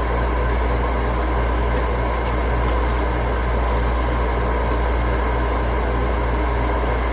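A steady low machine hum under an even haze of noise, with two brief hissing swells about three and four seconds in.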